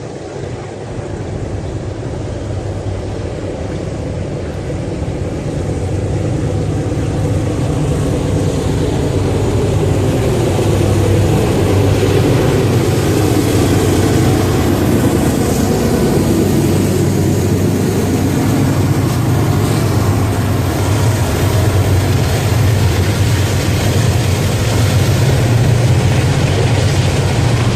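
Norfolk Southern diesel freight locomotives approaching and passing, the deep engine drone growing louder over the first ten seconds and then holding steady, with a pitch sliding down around the middle and wheel and rail noise rising in the second half.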